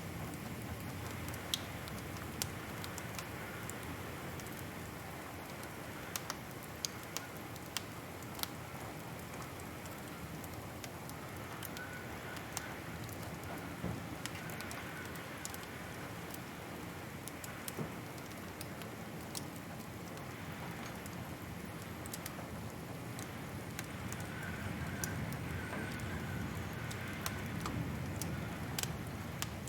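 Wood fire crackling, with scattered sharp pops over a steady soft rushing bed that grows a little louder near the end.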